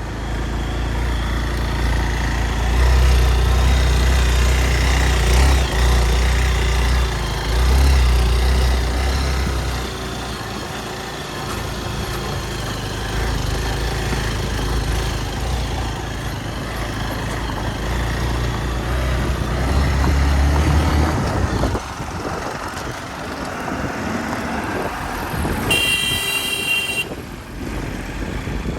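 Hero Xpulse 200 single-cylinder motorcycle engine running while riding, with wind rushing over the microphone. The low engine drone eases about three-quarters of the way through, and a short horn beep sounds near the end.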